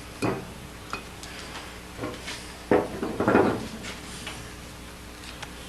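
A few scattered knocks and clicks, with a louder knock and a brief clatter about three seconds in.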